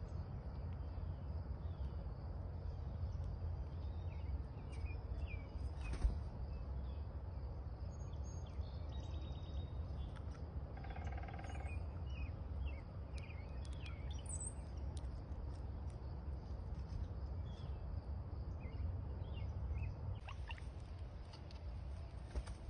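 Several small backyard birds chirping and twittering in short high calls, over a steady low rumble. A single sharp click about six seconds in, and a longer, lower call with a buzzy, layered tone around the middle.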